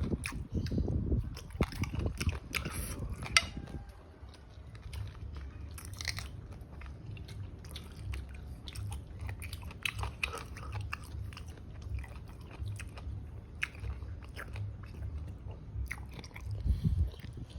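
Close-miked mukbang eating: a person chewing food with crunchy bites and wet mouth clicks. The biting is loudest and busiest in the first few seconds, then settles into steadier chewing.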